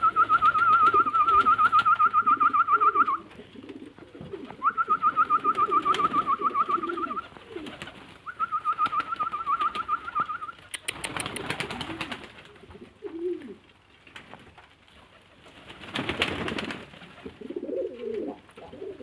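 Pigeons cooing, with a loud, high, rapidly warbling trill sounding three times, about 2 to 3 seconds each, in the first half. Two short rushing bursts of noise come later, one around the middle and one about two-thirds of the way through.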